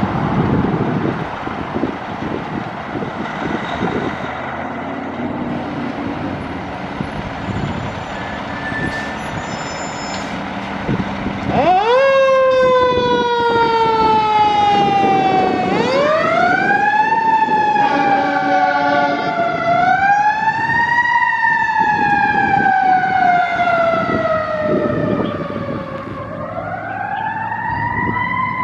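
Fire engine running on the road, its engine and road noise first, then about twelve seconds in its siren starts and wails in long cycles, each a quick rise in pitch followed by a slow fall.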